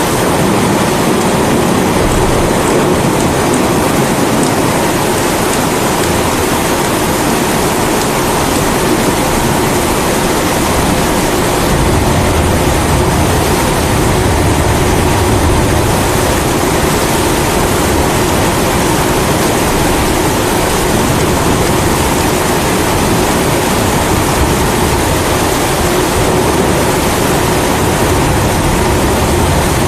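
Pressurised kerosene primus stove burner running with a steady roar, mixed with steady rain. A low thunder rumble builds in about twelve seconds in.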